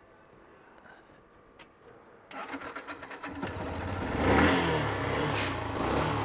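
Yamaha FZ16's single-cylinder engine being started about two seconds in: a second or so of starter cranking, then the engine catches, revs up briefly and runs. The exhaust is not that loud, pretty silent for a small bike.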